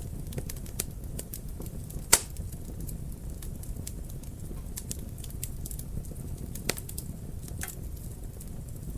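Fire burning in a fireplace: a low steady rumble of flames under constant small crackles. A loud sharp pop comes about two seconds in, and a few smaller pops follow later.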